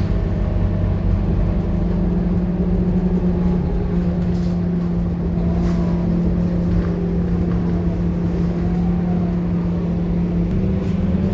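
Scania K230UB bus's five-cylinder diesel engine running at a steady speed, then rising in pitch near the end as it accelerates.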